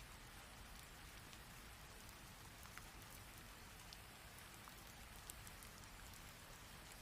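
Heavy rain falling steadily and quietly: an even hiss of rain with scattered single drops ticking sharply here and there.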